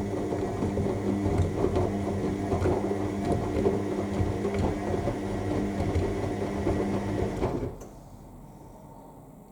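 AEG L7FE7461BI front-loading washing machine in its main wash: the drum motor hums steadily while the wet laundry tumbles and sloshes in the drum. The motor cuts off suddenly near the end and the drum stops, the usual pause before it turns the other way.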